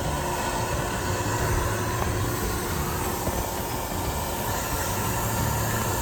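Car-wash machinery running steadily: a low motor hum under a rushing hiss.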